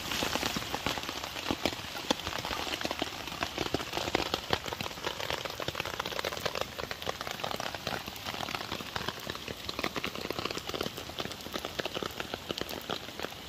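Torrential rain falling on waterlogged ground and puddles: a steady, dense hiss made of countless individual drop splats.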